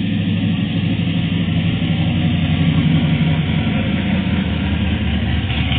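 A car engine running at a steady idle close by, with a low, even pitch that gets slightly louder around the middle.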